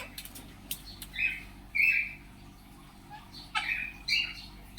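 Caged parrots (Indian ringneck parakeets and cockatiels) squawking: a handful of short, harsh calls, a couple at about one and two seconds in and another pair near the end.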